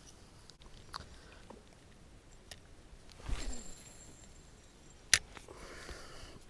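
Quiet handling noise from fishing gear in a kayak: scattered faint clicks, a dull knock about three seconds in, and one sharp click a little after five seconds.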